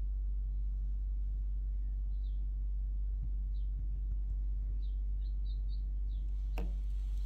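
Small birds chirping outdoors, short high chirps repeating every half second to a second over a steady low rumble. About three-quarters of the way through there is a single sharp knock followed by a brief rush of noise.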